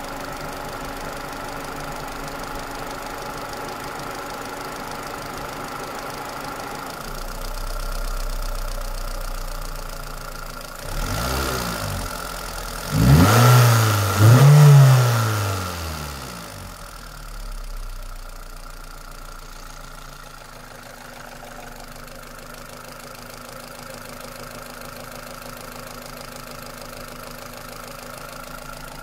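Toyota Celica's 2ZZ-GE 1.8-litre four-cylinder engine idling with a knock in it, the fault the owner is showing. About halfway through it is revved up and down three times in quick succession, then settles back to a steady idle.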